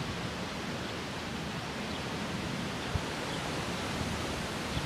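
Strong storm wind blowing as a steady rushing noise, with a small click about three seconds in.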